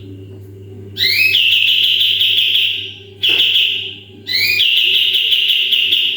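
Kapas tembak songbird giving its loud 'tembakan' whistles: two long, piercing notes, each opening with a quick upward slide and held for about one and a half to two seconds, with a short note between them.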